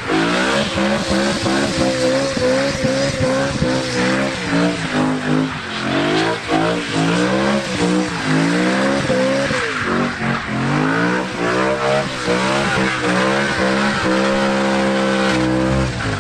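A BMW coupe's engine revving hard, its pitch rising and falling again and again, with the tyres squealing as the car spins donuts. Near the end the revs are held high and steady.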